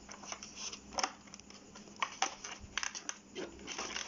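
Packaging being handled and opened by hand: irregular crackles and clicks with no steady rhythm.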